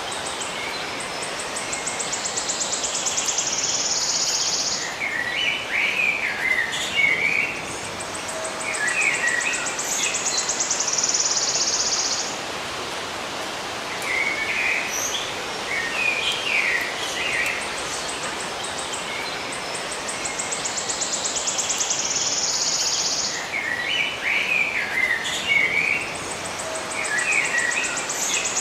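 Birds chirping in short clusters of quick notes over a steady hiss of outdoor ambience. A high, rapid pulsing buzz comes in every several seconds, lasts a few seconds each time and stops abruptly; the whole pattern repeats as if looped.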